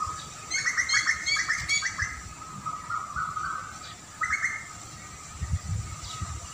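A songbird singing a quick run of repeated chirping notes for about a second and a half, then a shorter burst a couple of seconds later, over a steady thin high tone. A few low thumps come near the end.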